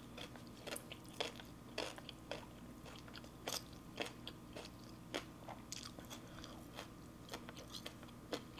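Close-miked chewing of a mouthful of food, with short sharp mouth clicks at an uneven pace of about one or two a second, over a faint steady hum.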